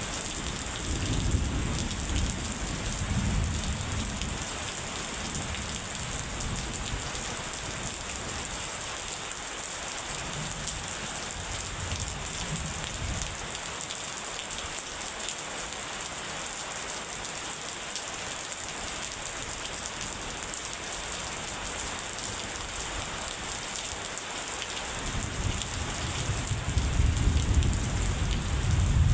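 Steady heavy rain with rolling thunder: a rumble in the first few seconds, a weaker one near the middle, and a louder, longer roll building near the end.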